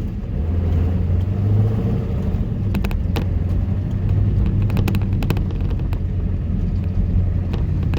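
Ford F-350's 7.3-litre Power Stroke turbo-diesel V8 pulling the truck in low range, a steady low drone, with sharp clicks and clatters about three seconds in, around five seconds, and again near the end.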